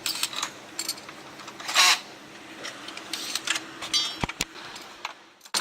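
Scattered knocks and clatter of hands-on teardown work, with one louder rasping sound about two seconds in and two dull thumps near the end.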